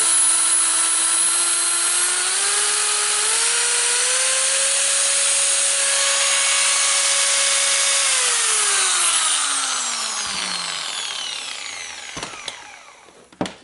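Metabo WEA 14-125 Plus angle grinder's brushed motor test-running on its old carbon brushes: a steady whine that climbs in pitch in steps over the first few seconds, holds, then winds down with a falling whine once the switch is released. A couple of knocks near the end.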